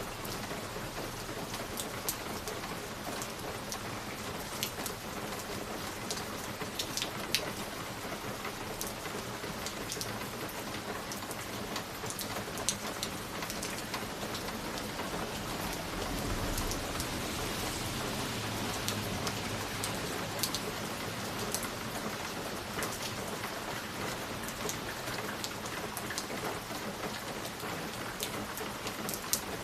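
Wood fire burning in a fireplace: a steady hiss with scattered sharp crackles and pops. A low rumble swells for a few seconds in the middle.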